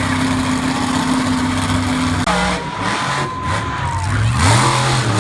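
Monster truck engine running at a steady pitch. About two seconds in it drops off, then revs up again near the end.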